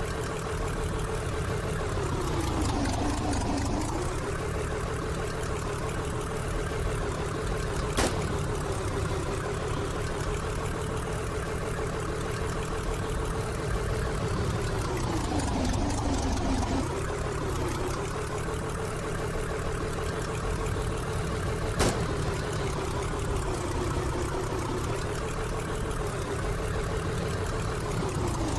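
A steady mechanical running sound: a low rumble under a motor whine that dips in pitch and climbs back about every thirteen seconds. A sharp click comes twice.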